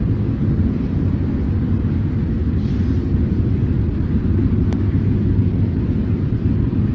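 Heavy iron ore freight train running past with a steady, deep rumble, with one sharp click about two-thirds of the way through.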